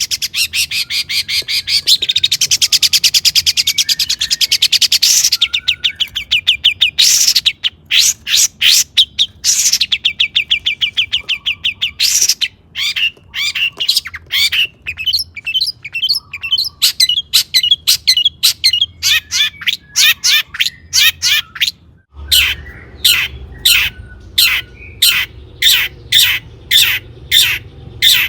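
Long-tailed shrike singing loudly: a fast, varied run of rapid repeated notes and trills. A little over twenty seconds in, the recording changes and the bird gives evenly repeated sharp notes, about three a second.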